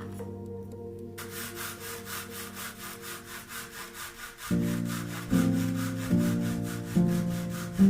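Hand saw cutting through wood in quick, even strokes, about four a second, starting about a second in. Background music plays underneath.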